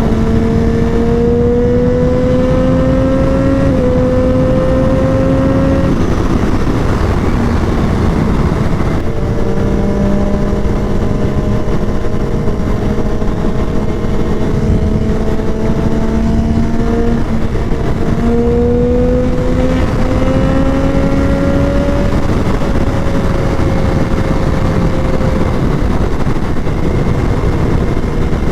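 Motorcycle engine running at road speed under heavy wind rush on the helmet microphone. The engine note climbs slowly as the bike accelerates in the first few seconds and again about two-thirds of the way through, and holds steady in between.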